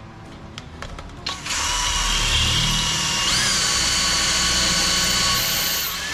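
Power drill spinning a collared bit through a drill bushing into a Porsche engine block, cutting a small starter divot for the main drill. It starts about a second and a half in, runs steadily with a high whine that steps up in pitch partway through, and stops near the end.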